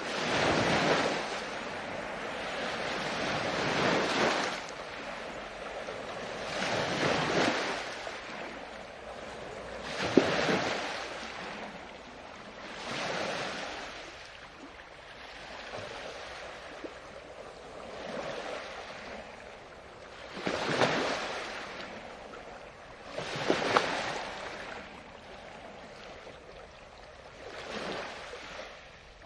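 Ocean waves breaking and washing up on a shore, each surge swelling and falling away every two to three seconds.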